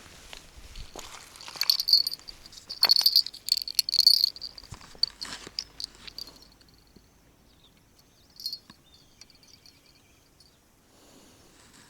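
High-pitched chirping in short runs through the first half, with scattered clicks and knocks, then a brief chirp and a few faint whistled notes later on.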